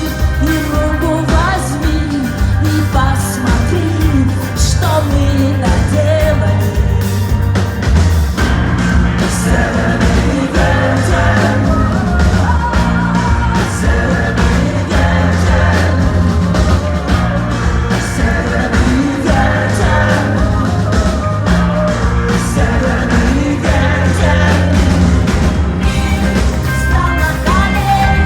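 Live concert performance of a rock-pop band playing, with a woman singing over it and a steady bass and drum backing.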